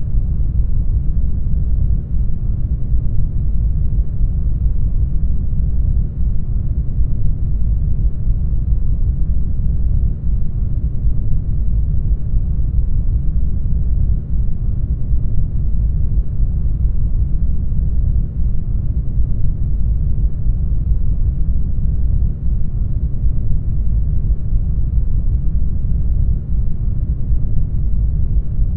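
Brown noise: a steady, deep rumbling hiss with most of its energy in the low bass, with a brief slight dip in level about every four seconds.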